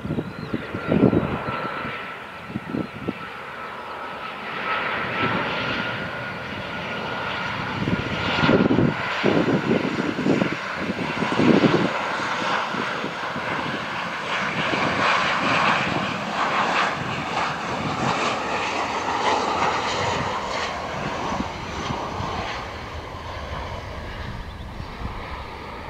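Airliner's jet engines passing, with a steady high whine and a broad rush that swells to its loudest in the middle and eases off toward the end.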